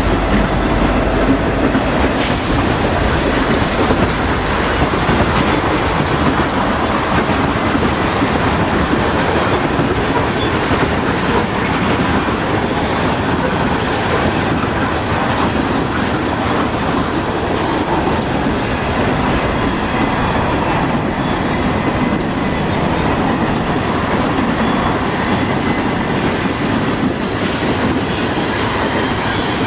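Freight train cars rolling past at close range: a steady rumble with the clickety-clack of wheels over rail joints.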